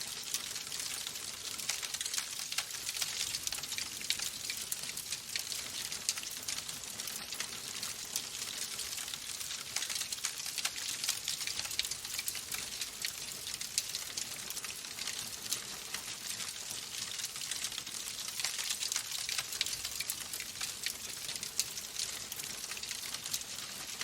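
Wood fire crackling in a fireplace: a steady hiss dotted with many small, sharp pops.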